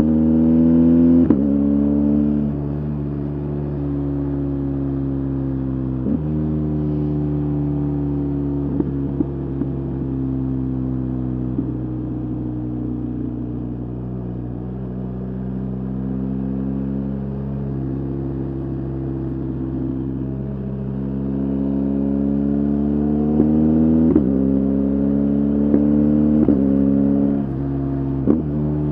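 BMW R 1250 GS Adventure's boxer twin engine running under load while riding. The revs climb and drop sharply at gear changes about a second and six seconds in, sag slowly through the middle, then climb again through a quick run of upshifts in the last few seconds.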